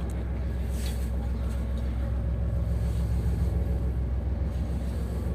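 Steady low rumble of a diesel train running, heard from inside the carriage, with a brief hiss about a second in.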